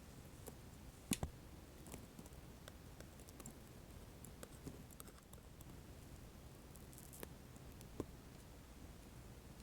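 Light scattered clicks and small taps of stickers being picked at and peeled off by fingernail, with a sharper click about a second in and another near the end.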